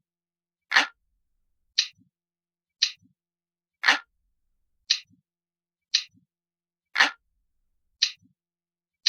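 Looped recording of an analog clock ticking, about one tick a second. Every third tick is louder and fuller than the two lighter ticks between.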